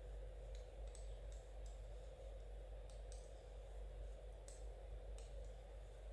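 Knitting needles clicking softly and irregularly, light taps now and then over a steady low hum.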